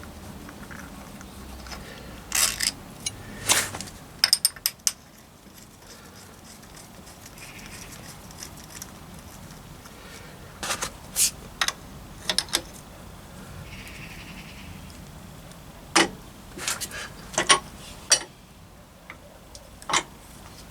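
Hand tools clinking and knocking against metal engine parts: short, sharp strikes in loose clusters of two or three, some ringing briefly, with gaps of a few seconds between clusters.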